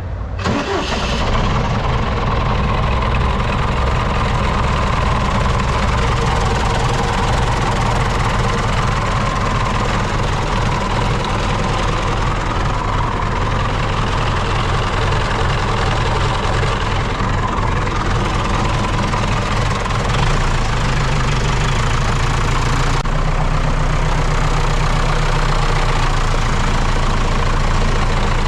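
John Deere tractor diesel engine starting up, its note rising under a second in, then running steadily at idle. The sound shifts about 23 seconds in.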